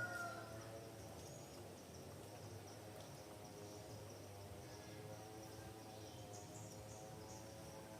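A rooster's crow ending just at the start, then faint rural ambience: thin high chirping over a low steady hum.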